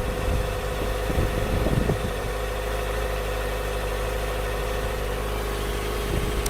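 Kawasaki ZX-25R SE's 250 cc inline-four engine idling steadily.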